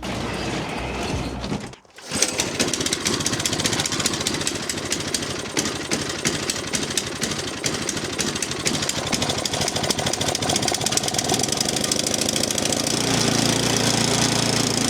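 Single-cylinder Powermore 208cc engine of an MTD snow blower catching about two seconds in after a pull-start, then running roughly with its speed hunting up and down (surging, which the owner calls "searching"), a sign of a fuel or carburetor fault still not cured.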